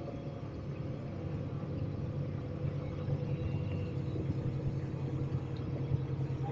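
Steady low rumble of a vehicle heard from inside it, even throughout with a faint steady hum above it.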